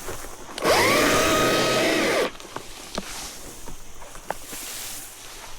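Battery chainsaw's electric motor running in a short burst of about a second and a half. It spins up quickly, holds a steady whine, then stops sharply. A few light clicks follow.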